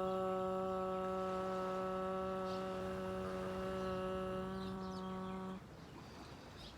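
A single voice chanting a long, steady "Ah" on one held pitch, ending about five and a half seconds in, followed by faint background hiss.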